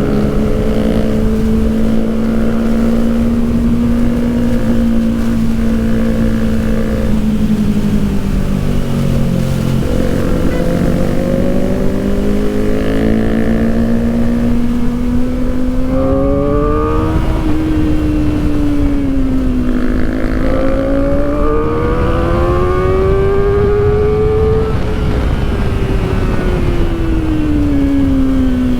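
Kawasaki Ninja ZX-4RR's 399 cc inline-four engine running while riding, its pitch steady at first, sinking about ten seconds in, then rising and falling twice more with the throttle.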